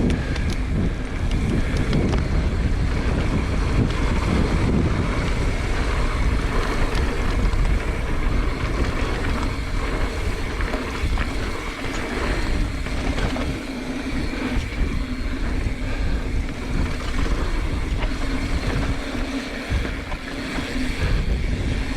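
Gusting wind buffeting the microphone with a heavy, steady rumble, over the rolling and rattling of a YT Jeffsy carbon 29er mountain bike riding a dirt trail.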